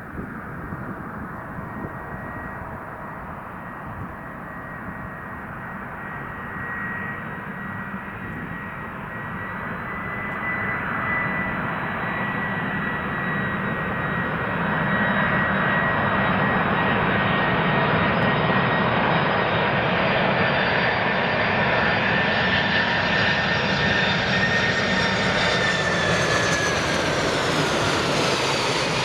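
Boeing 747 jumbo jet on landing approach, its four turbofan engines growing steadily louder as it nears. The engine whine then drops in pitch near the end as the jet passes by.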